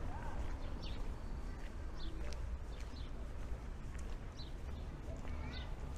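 Small birds chirping, short high calls repeated every half second to a second, over a low steady rumble of street ambience.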